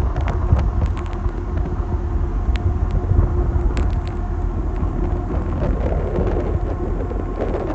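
Wind buffeting the microphone: a heavy, steady low rumble with a faint hum underneath.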